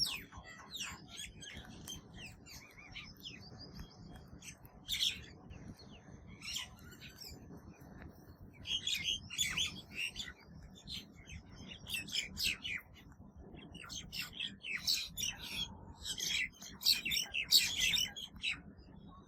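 Birds chirping in short, rapid bursts, over and over, the chirps coming thicker in the second half.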